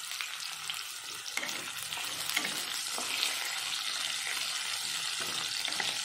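Potato wedges sizzling steadily as they fry in hot oil in a pan. A wooden spatula scrapes and turns them.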